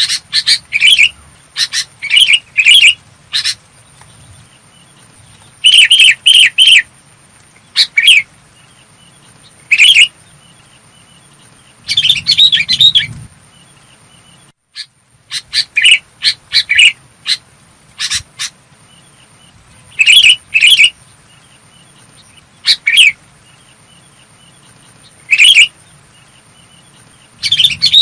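Sooty-headed bulbul calling: loud, clear, short notes in quick groups of one to four, repeated every two or three seconds.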